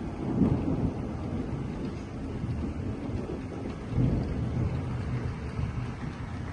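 Thunder rumbling over steady rain, swelling about half a second in and again around four seconds.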